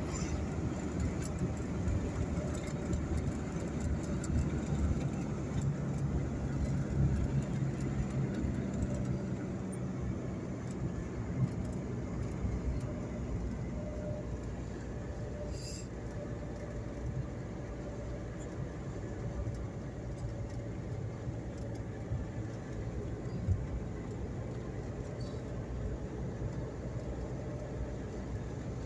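Steady low rumble of a running vehicle, with a faint, even engine hum.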